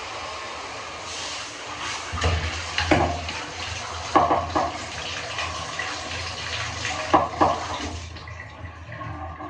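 Tap water running steadily while a dog is washed, with a few short knocks along the way; the water shuts off about eight seconds in.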